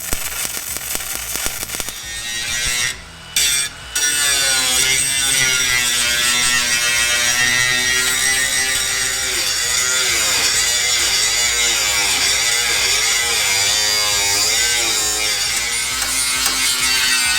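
Crackling for about two seconds, then, after a brief break, an electric angle grinder running on steel sheet metal. Its pitch sags and recovers again and again as the disc is pressed into the weld.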